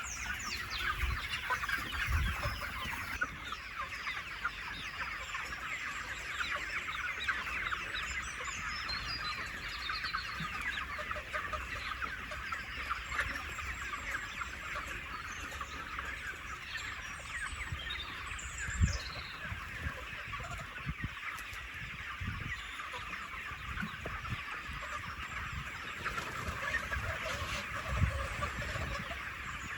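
A large flock of chickens clucking and cheeping continuously, many birds at once, with a few dull low thumps, the loudest about two-thirds of the way in and near the end.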